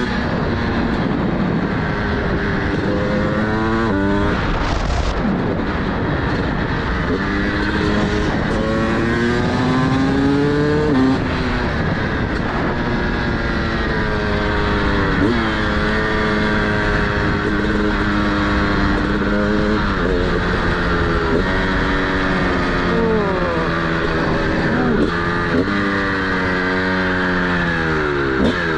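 TM SMR 300 two-stroke supermoto engine with a DBR exhaust, ridden through the gears: the revs climb again and again and drop sharply at each shift or roll-off, several times over.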